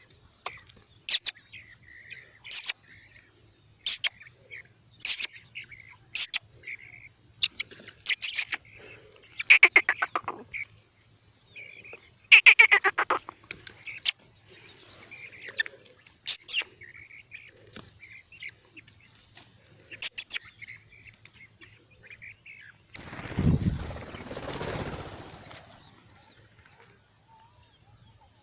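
Black francolin chicks peeping: short, sharp, high chirps about once a second, with a few quick runs of rapid notes. About two-thirds of the way through comes a rustling noise that lasts about three seconds.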